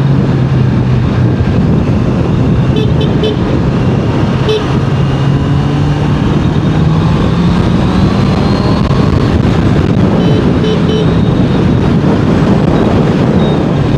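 Honda CBR650R inline-four engine running at road speed under heavy wind rush on the microphone, its pitch rising slowly about halfway through. Short horn toots sound about three seconds in and again about ten seconds in.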